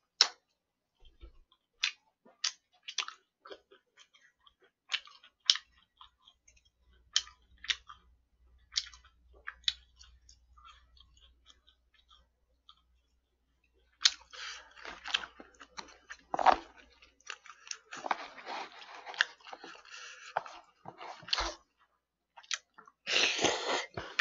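Close-miked chewing of food: scattered wet mouth clicks and smacks for the first dozen seconds, then, after a brief quiet gap, denser and louder chewing from about fourteen seconds in.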